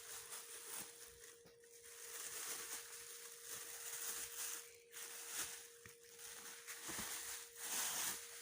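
Plastic wrapping rustling and crinkling in irregular swells as a new blender part is pulled out of its bag, with a faint steady hum underneath.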